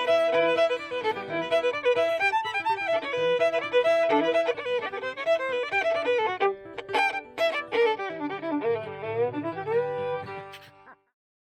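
Fiddle playing a bluegrass fiddle tune, the music stopping abruptly about eleven seconds in.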